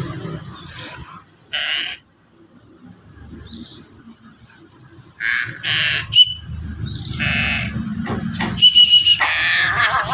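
Young crow giving repeated harsh, raspy begging calls in short bursts while being hand-fed, with a couple of brief high whistled notes between them.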